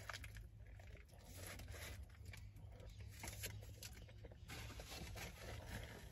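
Faint close-up chewing of a mouthful of cheeseburger, with many small wet mouth clicks and light rustling of its paper wrapper, over a low steady hum.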